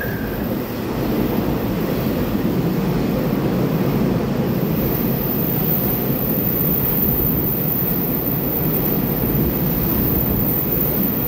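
Taiwan Railway EMU3000 Tze-Chiang electric multiple unit passing through a station at speed, cars running by close at hand with a loud, steady rush of wheels on rail. The tail of its horn cuts off just after the start.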